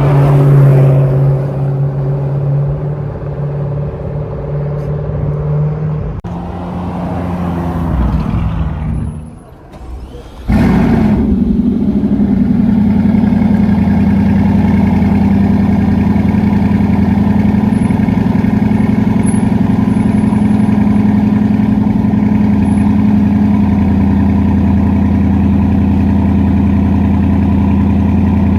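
Car engines running at steady revs. One engine's steady drone fades out about ten seconds in, then a different, louder engine drone starts suddenly and holds at a constant pitch.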